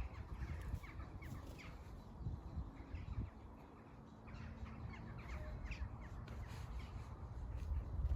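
Birds calling in short, scattered calls over a low, uneven rumble.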